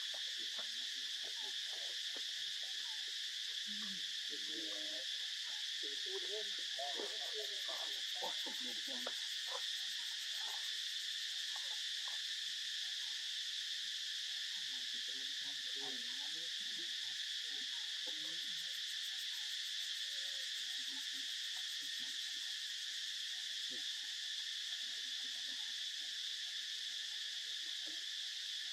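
Steady, high-pitched insect chorus that drones without a break. Faint, scattered soft lower sounds come and go underneath, most at about four to nine seconds in.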